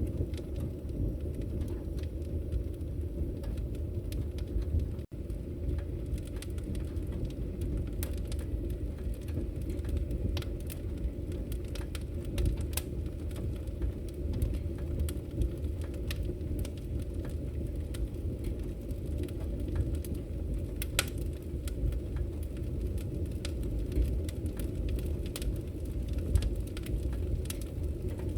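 Firewood burning: a steady low rumble of flames with scattered sharp crackles and pops. The sound cuts out for an instant about five seconds in.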